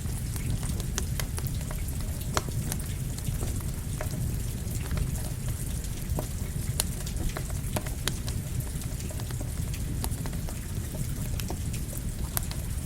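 Steady rain mixed with a crackling campfire: a constant low rumble of falling rain with scattered sharp pops and ticks throughout.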